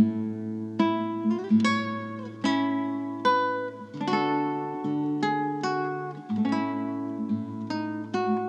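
Music: an acoustic guitar strumming chords at a slow, steady pace, about one chord a second, each ringing out before the next.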